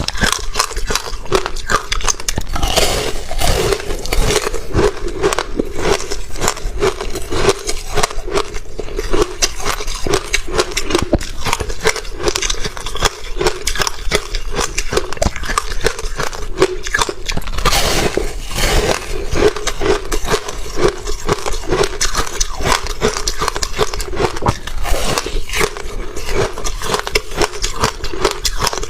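Close-miked biting and chewing of frozen passion fruit: a continuous run of crisp ice crunches and crackles with no pause.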